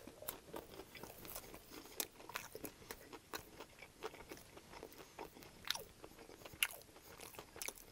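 Close-miked mouth sounds of a person chewing a McDonald's chicken nugget: quiet, with many small irregular clicks and crunches as it is chewed.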